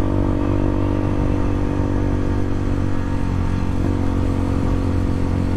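Bashan 250 dirt bike's engine running at a steady pitch under way. The engine note grows weaker about halfway through.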